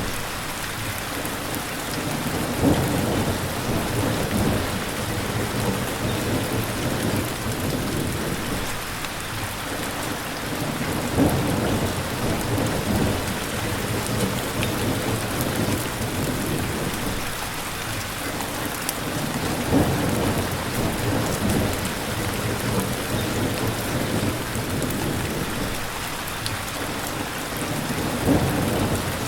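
Steady rain hissing, with low rumbles of thunder swelling about every eight seconds.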